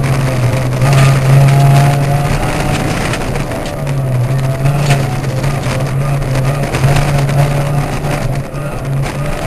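Ford Puma rally car's engine running hard under load, heard from inside the cabin, its note holding steady with a few brief dips, over loud road noise from the gravel surface.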